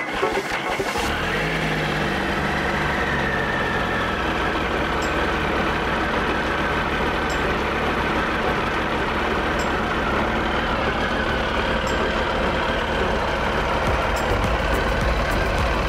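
Triumph Sprint ST 955i's inline three-cylinder engine starting about a second in, its pitch easing down over the next few seconds as it settles into a steady idle.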